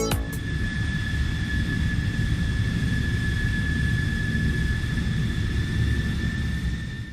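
Jet aircraft engine running steadily: a low rumble under a steady high whine. It fades and cuts off near the end.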